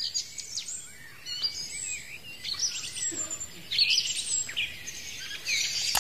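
Several birds chirping and singing in quick, overlapping calls that slide up and down in pitch, with a sharp click right at the end.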